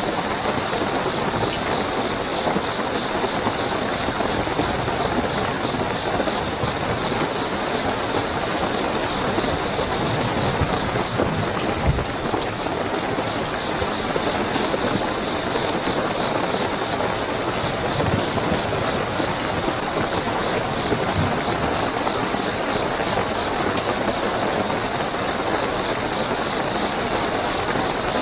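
Steady heavy rainfall with night crickets chirping in a continuous high trill over it. A brief low thump comes about twelve seconds in.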